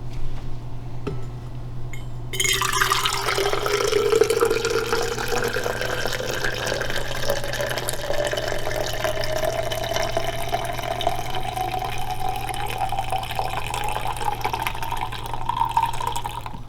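Liquid pouring into a container, starting about two seconds in. The pitch rises slowly and steadily as the container fills. A steady low hum runs underneath.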